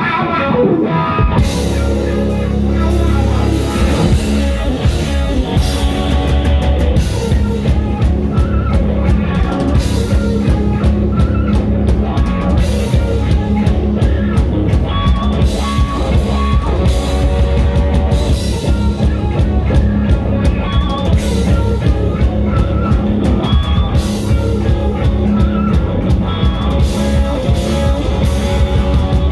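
Live rock band playing: an electric guitar part, with drums and bass coming in about a second in and the full band then playing a steady, driving groove.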